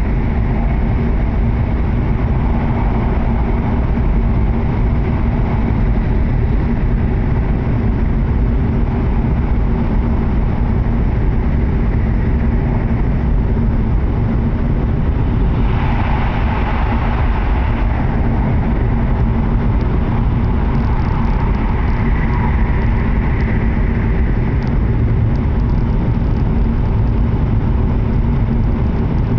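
Cabin noise inside a W7-series Shinkansen passenger car running on the line: a steady, loud low rumble with an even hum. About sixteen seconds in, a higher hiss swells for a couple of seconds and then eases.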